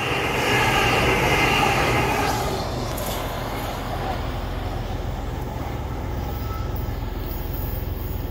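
TransPennine Express class 802 bi-mode train passing through the station and running away, its rail and running noise loudest for the first two seconds or so, then fading into a steady low rumble.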